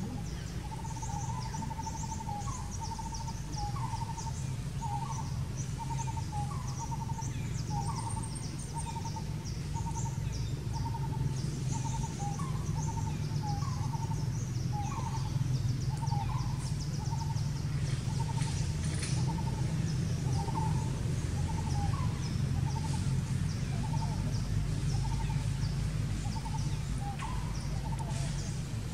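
A bird gives a short hooting note over and over in a steady rhythm, with faint high chirping of other birds or insects above it and a steady low rumble underneath.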